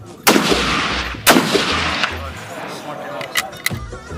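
Two rifle shots about a second apart, each followed by a long, echoing tail.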